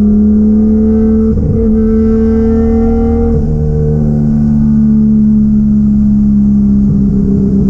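Turbocharged 1JZ-GTE VVTi straight-six in a Nissan 240SX heard under way, holding a steady drone at near-constant engine speed with small changes about a second and a half in and again near the end.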